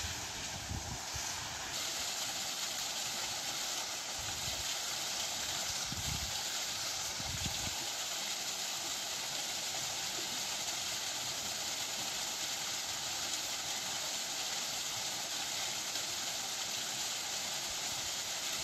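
Steady rush of a waterfall, an even hiss of falling water, with a few dull low thuds in the first half.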